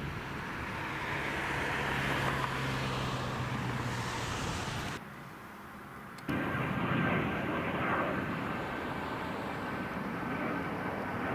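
Airliner engines running with a steady rushing noise. The sound drops away suddenly about five seconds in and comes back just as suddenly a second later, now with a steady high whine over the rush.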